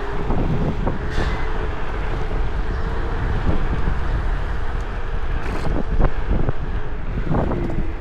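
Wind buffeting the microphone while riding an electric scooter, with a faint steady motor whine and occasional knocks and rattles from bumps.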